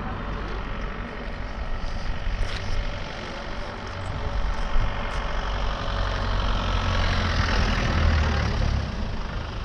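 Road vehicle engine running close by, a steady low rumble that grows louder in the second half as traffic goes past.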